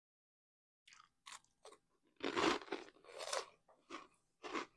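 Mouth crunching and chewing an orange puffed cheese snack into a close clip-on microphone: a few light crunches about a second in, then louder crunches from about two seconds in.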